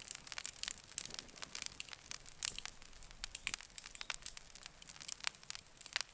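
Wood fire crackling: a rapid, irregular scatter of sharp snaps and pops over a faint hiss.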